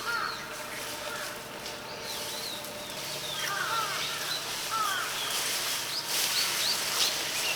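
Small birds chirping: many short, quick calls that rise and fall, over a steady background hiss that gets louder past the middle.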